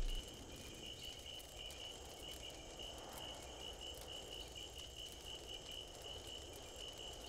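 Faint cricket chirping: one high-pitched note pulsing evenly several times a second, over a low steady hiss.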